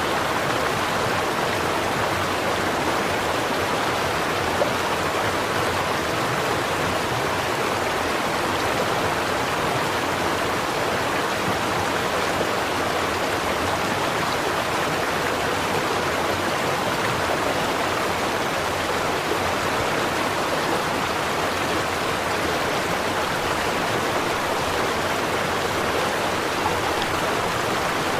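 Small stream flowing over rocks: a steady babble of running water.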